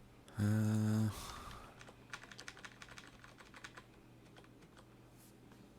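A short, loud, steady low buzz lasting under a second, then a run of quick computer keyboard and mouse clicks.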